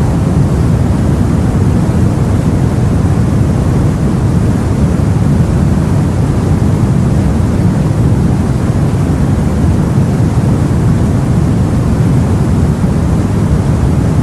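Sea noise around a boat: a loud, steady, deep wash with no separate wave breaks or other events.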